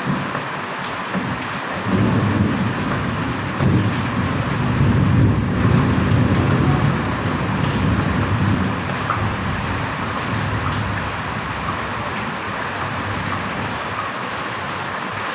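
Steady heavy rain hissing, with a long low rumble of thunder that swells about two seconds in and slowly fades away over the second half.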